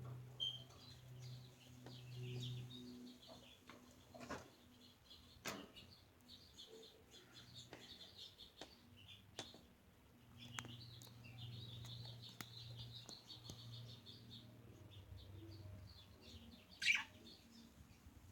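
Budgerigars chattering and warbling softly, with scattered sharp clicks and one louder, downward-sweeping call near the end. A low hum sits underneath.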